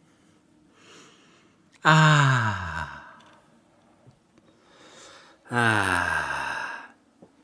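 A person's voice sighing twice, about three and a half seconds apart. Each sigh is a long exhale whose pitch falls, lasts about a second, and comes after a quieter breath in.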